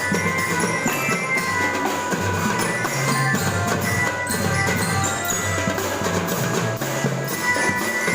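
A school marching drum band playing: drums and bass drums beating steadily, with sustained melodic notes and a low bass line over them.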